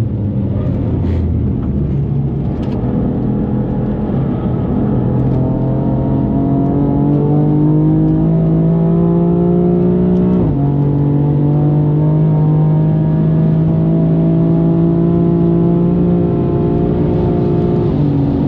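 The tuned, bigger-turbo twin-turbo straight-six of a BMW M4 pulling hard under full throttle, its pitch rising slowly through the gear. About ten seconds in it drops sharply at a quick upshift, then climbs again, with another shift right at the end.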